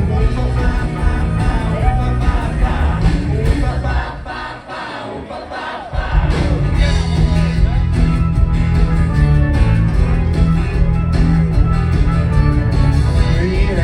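Live rock band playing with singing. About four seconds in, the bass and drums drop out for a two-second break, then the full band crashes back in.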